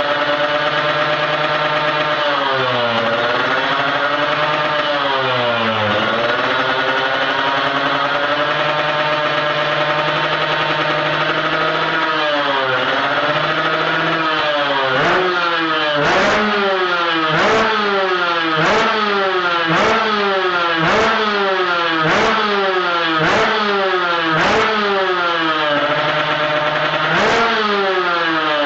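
Kawasaki Ninja drag bike with a Creampie Z1 racing exhaust, idling and revved in place with sharp throttle blips. A few spaced blips come first, then a run of about ten quick blips roughly one a second, each rising and dropping straight back to idle.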